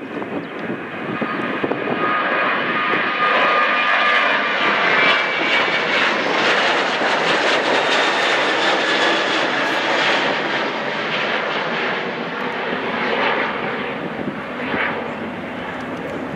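Jet airliner's engines passing, swelling to a peak around the middle and then easing off, with a faint whine over the first few seconds.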